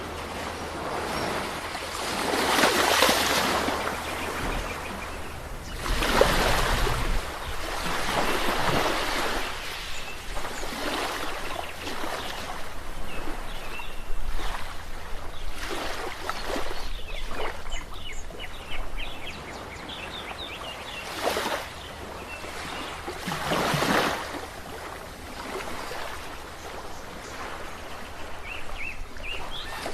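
Sea waves breaking on a shore: a steady wash of surf that swells into a louder surge every few seconds as each wave comes in.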